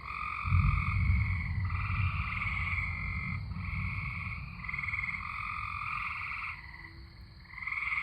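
Chorus of tree frogs trilling, several overlapping pulsed trills about a second long, one after another. A low rumble of thunder swells about half a second in and fades over the next couple of seconds.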